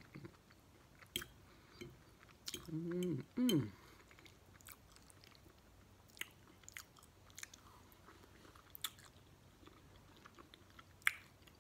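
A person chewing food close to the microphone, with scattered soft wet mouth clicks. A short voiced hum comes about three seconds in.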